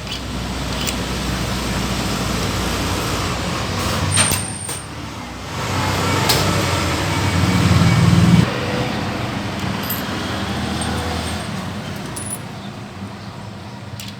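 Low rumble of passing road traffic, swelling to its loudest about eight seconds in and then fading, with a brief sharp hiss just after four seconds.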